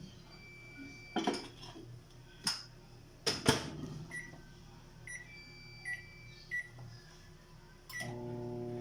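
Microwave oven being loaded and started: a few knocks and clunks as the dish goes in and the door is shut, then five short keypad beeps as the time is set. About 8 s in, the oven starts running with a steady hum.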